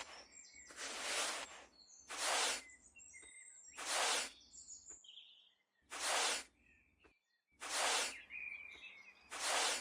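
Six short rushes of noise, each about half a second long and spaced roughly a second and a half apart, like repeated strokes of a handheld tool or sprayer at a small build. Faint bird chirps sound between them.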